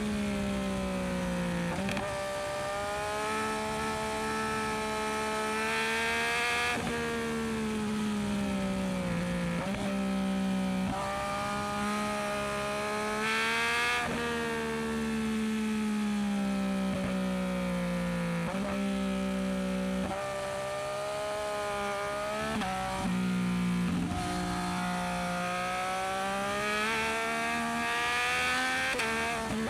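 Yamaha MT-09SP's three-cylinder engine through a Dominator aftermarket exhaust, under way with the revs repeatedly climbing and falling and jumping at gear changes.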